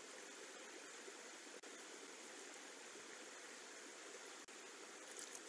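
Faint steady hiss of rain falling around an outdoor nest webcam's microphone, broken by two very short dropouts.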